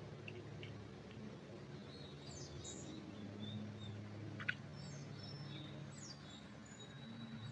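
Small forest birds giving scattered short chirps and whistles, faint over a low steady hum. One sharp click about halfway through.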